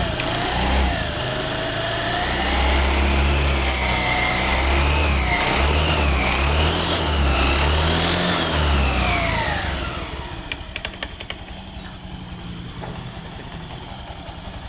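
Honda BeAT injection scooter's single-cylinder engine and CVT revved in several rising and falling blips, then dropping back to a quieter idle about ten seconds in. It runs without the rattle of worn CVT rollers, now smooth after new rollers went in.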